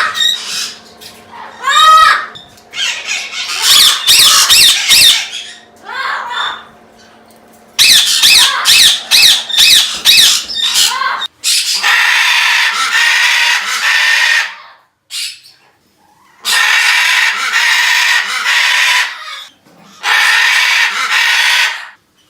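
Pet parrots squawking and screaming: quick rising whistled calls and harsh squawks, then three long, harsh screams of about three seconds each in the second half.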